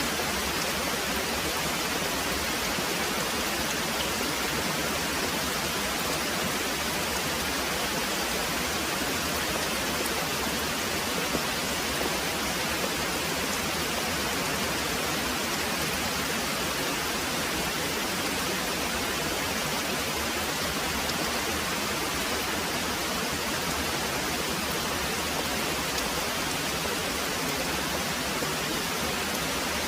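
Very heavy rain pouring steadily, a dense even hiss with no let-up or change in level.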